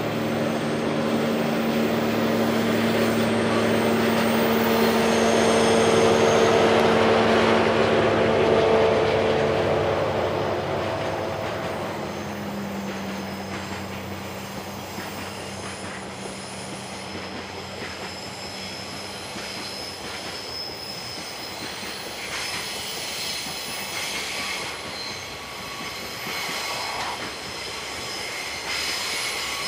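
DD51 diesel-hydraulic locomotive, with its two V12 diesel engines running under power, passing close on a curve. The engine note is loudest a few seconds in and drops slightly in pitch as it goes by. Then the freight wagons roll past with high wheel squeal on the curve, and near the end the engines of a second DD51 at the rear of the train come in.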